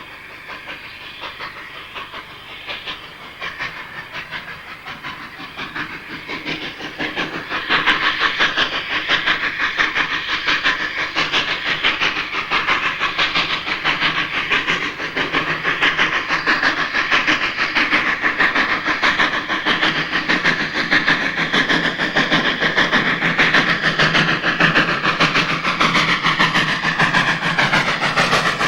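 Steam locomotive hauling a train along the line, with hiss and fast rhythmic beats; it grows much louder about seven seconds in as the train comes close and stays loud.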